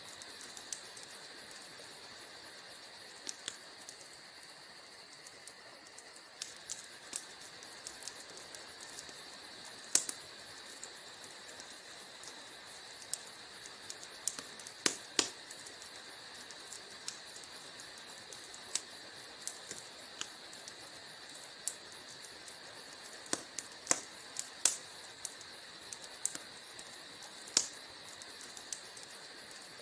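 Wood fire crackling in a fireplace: sharp, irregular pops and snaps, a few of them louder, over a steady high hiss.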